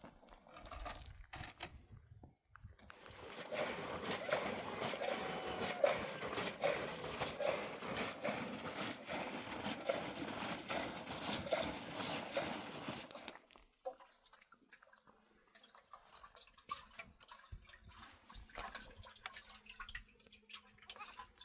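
Liquid pouring or splashing steadily for about ten seconds, starting about three seconds in and stopping abruptly.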